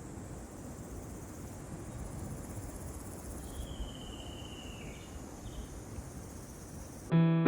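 Outdoor ambience: steady high-pitched insect chirring over a low rumble of wind, with one drawn-out whistled call about halfway through. Piano music starts suddenly near the end.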